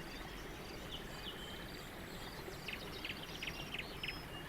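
Faint birdsong in the background: scattered short high chirps and tweets, with a quick run of chirps about three seconds in, over a low steady hiss.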